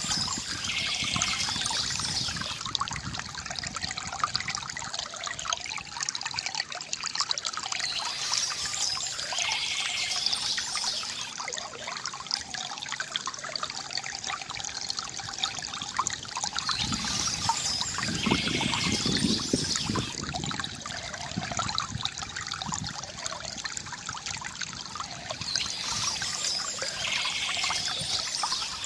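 Water trickling and pouring steadily from a bamboo fountain, with a brighter splashing patch that comes back about every nine seconds.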